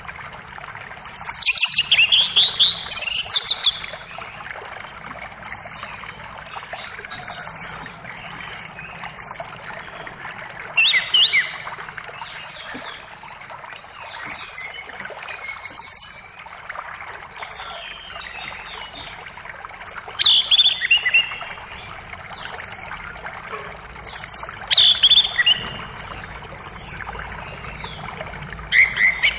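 Birds singing over the steady rush of a creek. A short high note repeats every second and a half to two seconds, and a few times a falling run of notes breaks in.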